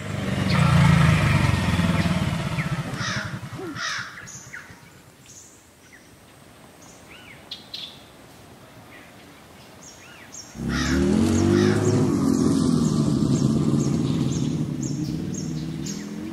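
Motorcycle engine running and fading away over the first few seconds, with crows cawing and small birds chirping. About ten seconds in, a motorcycle engine comes in suddenly and keeps running.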